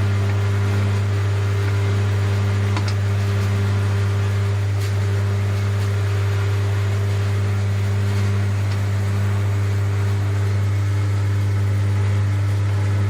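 A workshop machine's electric motor or transformer running with a steady, loud hum, switched on just before and holding an even pitch throughout.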